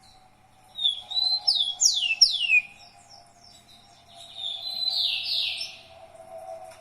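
A songbird singing two bursts of quick, high whistled notes that slide sharply downward, the first about a second in and the second around the middle.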